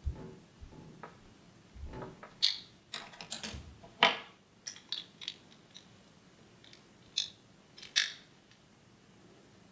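Irregular clicks, taps and light rattles of hand tools and small parts being handled during motorcycle wiring work, the loudest about four seconds in, dying away after about eight seconds.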